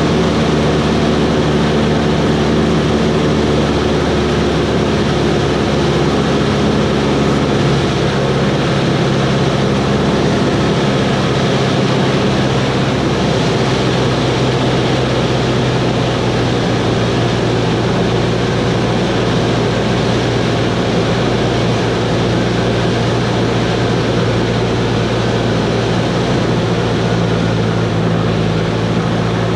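Cessna 140's piston engine and propeller running steadily in flight, with a steady drone. The engine note drops to a lower pitch about seven seconds in.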